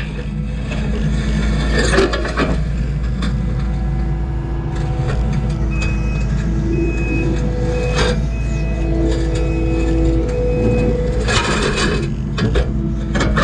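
Kubota skid steer's diesel engine running steadily while its reverse alarm beeps about six times near the middle. Loud scraping and crunching bursts break in a couple of seconds in, again near the middle, and again near the end.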